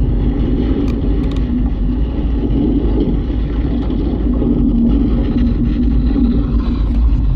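Earthquake rumble sound effect played very loud through a home-theater system's subwoofer and speakers: a steady, deep rumble that holds level throughout. A few faint clicks come about a second in.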